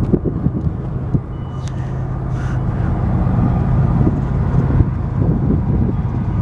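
Diesel-powered train passing close by: a steady low engine drone with a deep rumble and a few scattered knocks.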